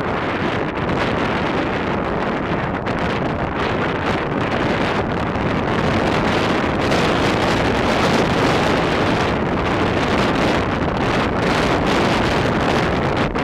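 Loud, steady wind buffeting the microphone, a dense rushing noise with small flickering dips.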